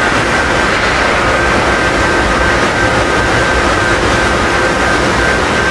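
Steam locomotive and its train running past, a loud steady rush of noise with faint thin ringing tones held above it.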